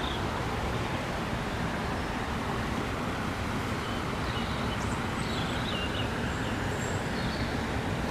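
Steady rush of water pouring over a nearby river weir, with a few faint high chirps in the middle.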